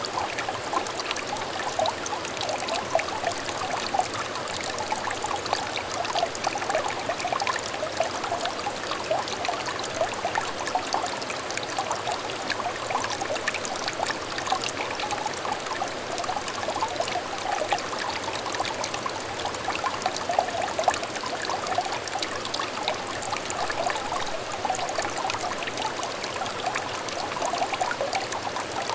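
Small clear stream trickling and babbling over stones, a steady run of light splashing and burbling.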